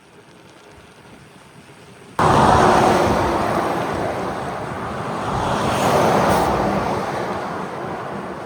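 Rush of wind on the microphone and highway traffic as a bicycle speeds downhill along an interstate shoulder. The noise is low at first, then turns suddenly loud about two seconds in and eases off slowly, swelling again near the end.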